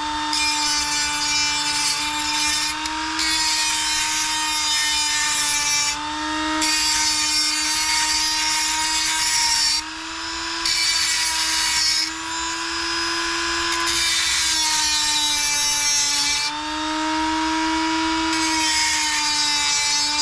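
Dremel rotary tool running at a steady whine, its bit grinding in stretches of a few seconds with short breaks as it chamfers and deburrs the cut end of an RC car motor's shaft, rolled at a 45-degree angle all the way around.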